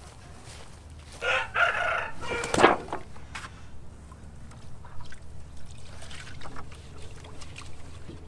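A rooster crows once, about a second in, a call of a second and a half.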